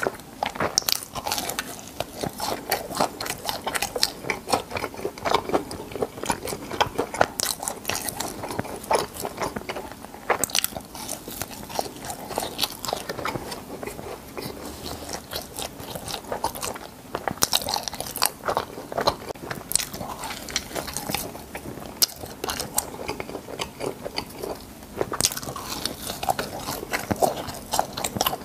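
Close-miked chewing of crispy fried cheese balls: an irregular, continuous run of sharp crunches and mouth clicks as the crisp crust is bitten and chewed.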